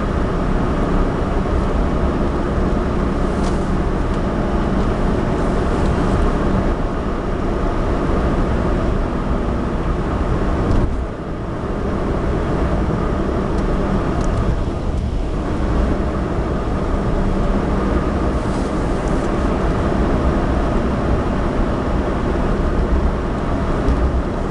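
Inside a Suzuki Alto kei car driving on a road: steady engine and tyre noise. The noise briefly drops about eleven seconds in.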